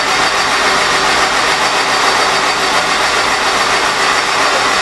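Honda S2000 engine turning over on its starter with the fuel injectors unplugged, a steady, even cranking drone that does not fire; it is being cranked to build oil pressure before the first start.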